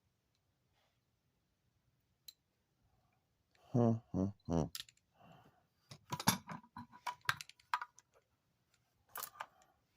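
Sharp clicks and small taps of hand tools working on a small electric motor salvaged from a vacuum, coming in a busy run after about six seconds. Three short grunts about four seconds in.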